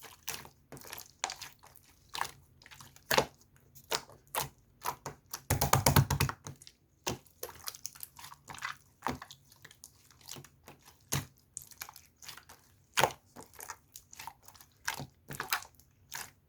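Irregular short clicks and taps, with a quick cluster of them about six seconds in.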